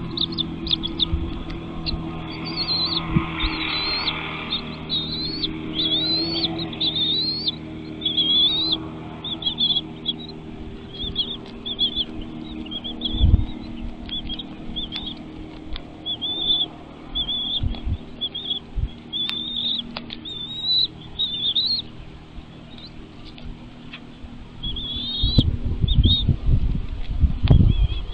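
Small birds giving a long series of short, high chirps, each a quick rising-and-falling squiggle, coming in runs, typical of nestlings begging at the nest. Low thumps and rustling join in near the end.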